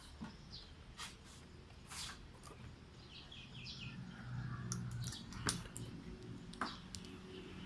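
A few light, separate clicks and taps of small gearbox parts being handled, over a low steady hum, with a short run of faint bird chirps about halfway through.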